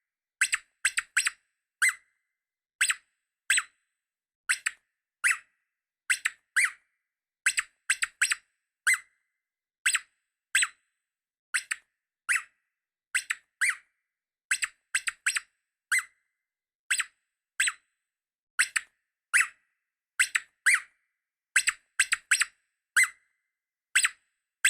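A long series of short, high-pitched squeaks, singly and in quick pairs, about one and a half a second, with silence between each.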